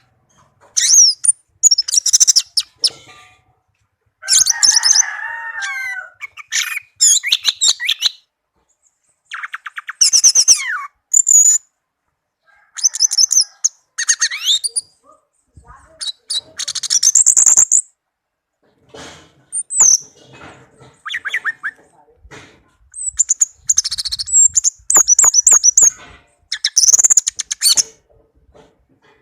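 Orange-headed thrush (anis merah) singing: a varied song in short phrases of rapid chattering notes and high whistled slurs, with brief pauses between phrases.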